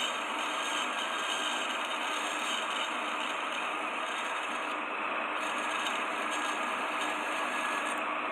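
Small homemade dowel-making machine running with a steady mechanical noise.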